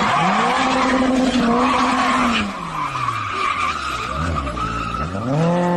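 Car engine revving up, holding, then easing off, and revving again near the end, with tires squealing and skidding throughout.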